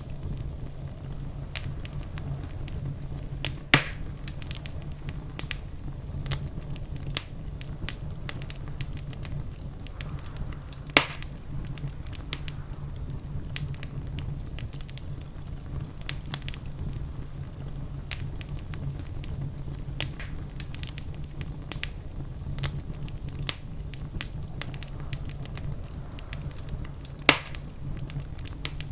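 Wood fire crackling in a fireplace: a steady low rumble under a constant stream of small pops and ticks, with three louder snaps, about four seconds in, about eleven seconds in and near the end.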